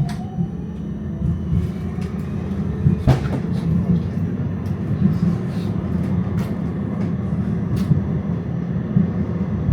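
Electric tram pulling away. The traction motors give a whine that rises in pitch through the first couple of seconds, then the tram runs on with a steady low rumble of wheels on rail, broken by a few sharp clicks and knocks, heard from inside the car.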